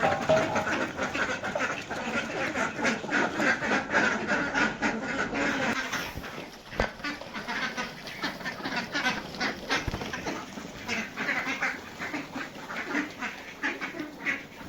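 A flock of Indian Runner ducks quacking, many short calls overlapping without a break.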